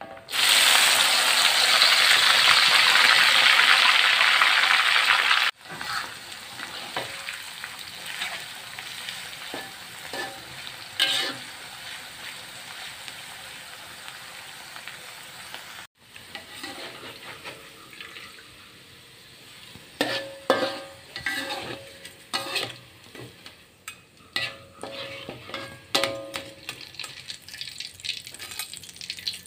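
Bean sprouts dropped into hot oil in a wok: a loud burst of sizzling that drops abruptly about five seconds in to a steadier, quieter frying sizzle. In the second half, metal utensils scrape and clink against the wok as the crisp, browned sprouts are stirred and lifted out.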